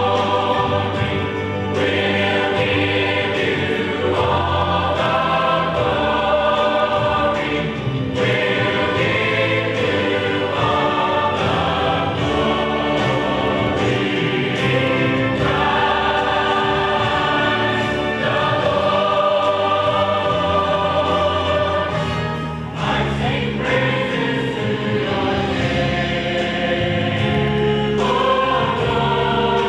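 A choir singing, many voices holding sustained notes, with short breaks between phrases.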